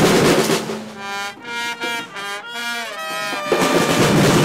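A horn plays a short phrase of several stepped notes, ending in a slide, in a gap of about three seconds in loud carnival drumming, which stops and then starts again.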